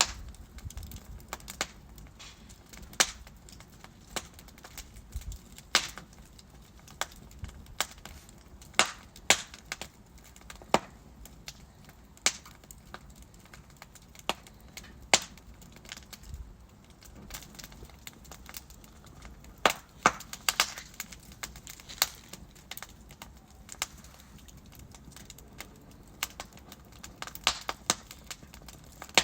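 Wood fire burning in a fireplace, logs crackling with irregular sharp pops and snaps over a faint low hiss.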